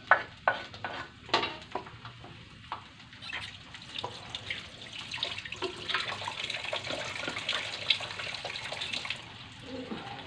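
A spatula knocks and scrapes a few times against a wooden cutting board and the wok in the first two seconds, then shallots, chili and tomato sizzle steadily in hot oil in a stainless steel wok; the sizzle drops away near the end.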